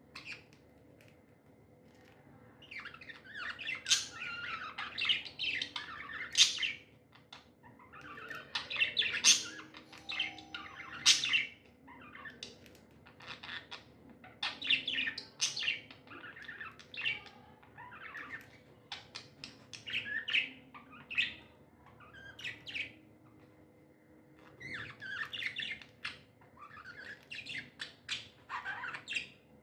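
Pet budgies (budgerigars) chirping and chattering in quick, busy bouts of short calls with a few harsher squawks, pausing briefly between bouts.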